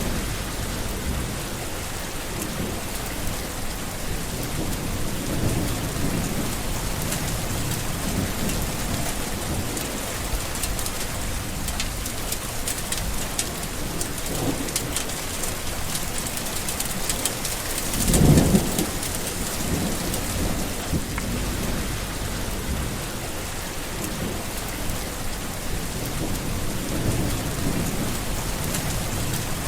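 Steady heavy rain falling with rolling thunder: low rumbles swell and fade throughout, the loudest a short clap of thunder a little past halfway.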